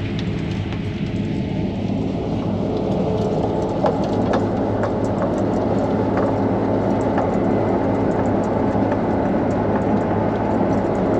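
Combine harvester running steadily while cutting, heard from inside the cab: a steady engine hum under a dense machinery rush that swells about two seconds in. Scattered sharp ticks run through it from about four seconds in.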